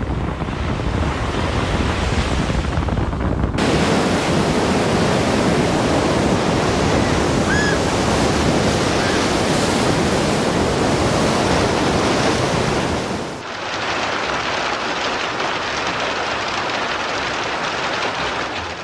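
Steady, loud rushing noise of wind and water, changing abruptly twice, about three and a half and thirteen seconds in.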